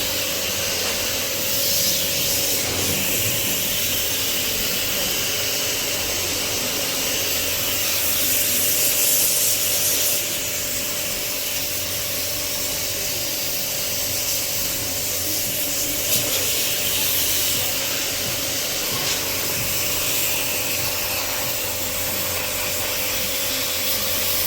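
Portable pressure-washer pump running with a steady hiss of water spraying onto a split air conditioner's dirty indoor coil, a constant motor whine under the spray.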